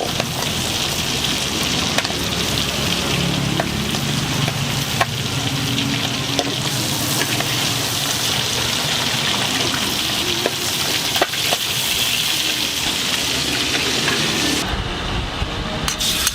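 Rice noodles and chicken stir-frying in a hot wok: a steady sizzle with a few sharp clicks of the spatula against the pan. Near the end the high sizzle thins and a low rumble comes in.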